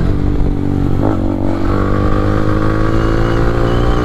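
Yamaha R15 V3 motorcycle's single-cylinder engine running through an Akrapovic aftermarket exhaust while riding, the engine note climbing slowly as it picks up speed from about a second in.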